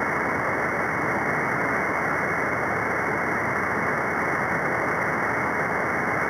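Steady static hiss from an SDR receiver tuned to the CB free band above channel 40, held to a narrow voice-band bandwidth, with no readable station coming through.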